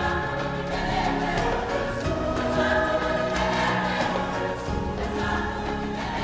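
A choir singing, with music.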